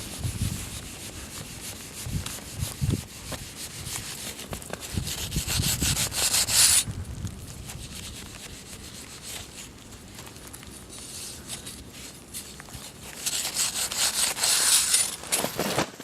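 Snow saw rasping back and forth as it cuts along a buried weak layer of new facets under a hard wind slab during a propagation saw test. Louder stretches come about five and thirteen seconds in.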